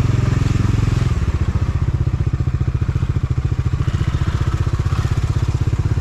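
Motorcycle engine running with a rapid, even exhaust beat. About a second in, the low steady hum under it changes.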